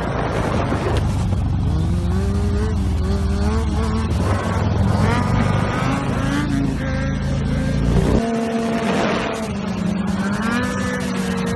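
Motorcycle engine revving and accelerating, its pitch climbing and dropping repeatedly with gear changes. About eight seconds in the sound changes abruptly and the deep low rumble drops away.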